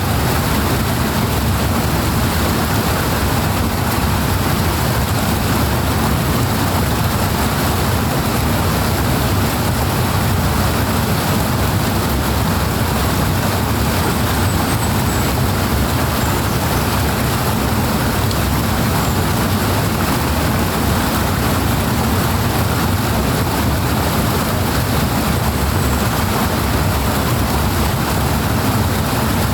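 Fast-flowing stream water rushing steadily, a deep, even rush that never lets up.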